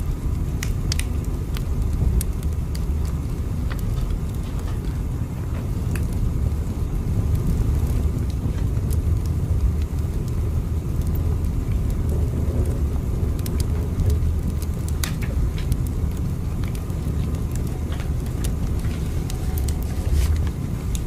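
Train running: a steady low rumble with scattered light clicks and creaks over it.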